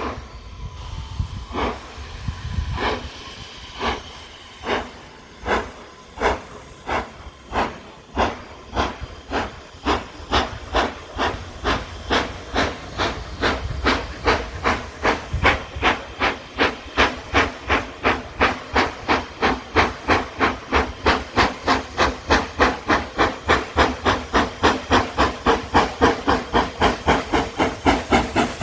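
Steam locomotive pulling away from a stand: exhaust beats from the chimney with steam hiss, slow at first and quickening steadily to about three beats a second.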